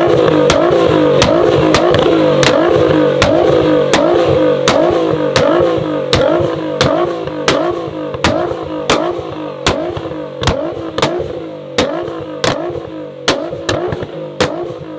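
Modified car engine held on a two-step launch-control limiter, high revs cutting in and out with a sharp exhaust bang about two to three times a second. In the second half the revs drop and the bangs stand out more separately.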